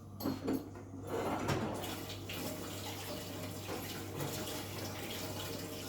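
Kitchen tap running into a sink: a couple of light knocks, then the water comes on about a second in and runs in a steady stream.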